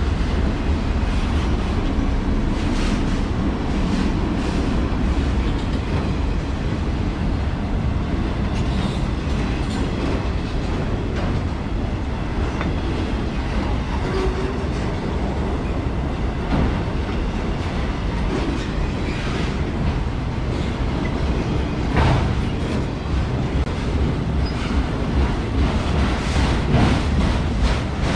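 CSX freight train cars rolling past: a steady heavy rumble with wheels clicking over the rail joints.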